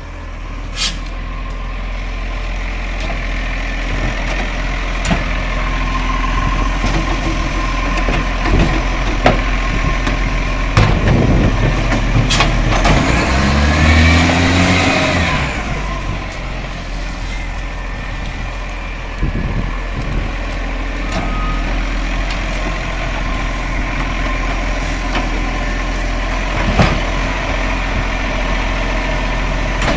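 Garbage truck running, with a steady low engine hum. About halfway through, an engine grows louder and rises in pitch, then falls away, and a few sharp knocks sound now and then.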